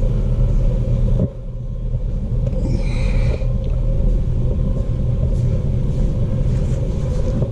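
A steady low rumble with a constant hum, dipping briefly a little over a second in, and a short higher-pitched sound about three seconds in.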